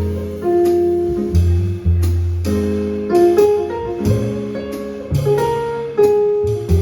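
Live jazz played by piano, bass and drum kit: deep plucked bass notes, each ringing about a second, under piano chords, with sharp attacks on each new note.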